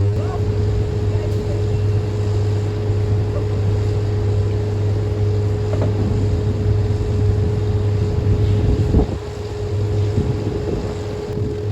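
Sawmill machinery running steadily: a loud low drone with a steady whine held above it, and a few faint knocks.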